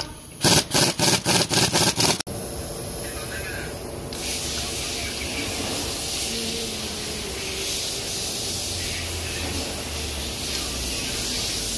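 A quick run of about seven loud knocks in the first two seconds. After an abrupt cut comes the steady running of a GMC Tahoe engine idling, a hiss over a low hum with no missing or uneven beat; the misfire is cured after the valve lifters were replaced.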